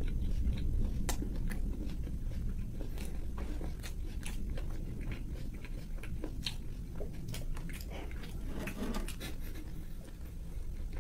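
Close-miked chewing of fried pork: irregular crunches and wet mouth clicks.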